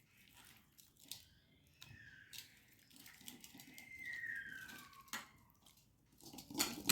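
Faint, soft wet handling sounds as marinated chicken pieces are added to a bowl of thick masala paste, with scattered light clicks. A faint falling whine is heard in the middle, and a sharper click comes near the end.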